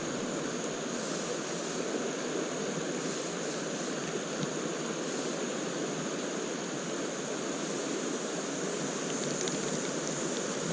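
Steady rush of a shallow creek running over rocks in small rapids.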